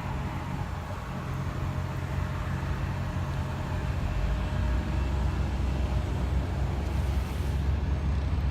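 Steady low engine rumble of a motor vehicle, getting a little louder about halfway through.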